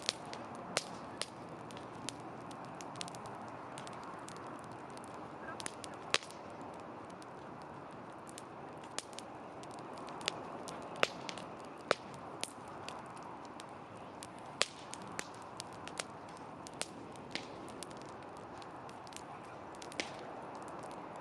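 Wood campfire crackling: irregular sharp pops and snaps, a handful louder than the rest, over a steady soft hiss of burning.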